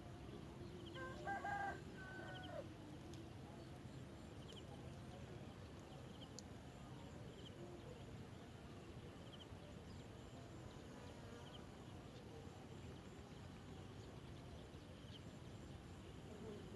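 A short pitched bird call about a second in, with faint high chirps repeating about once a second and a steady low background hum.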